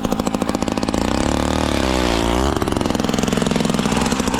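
A combustion engine running steadily, its pitch rising and falling briefly about two seconds in, as if revved.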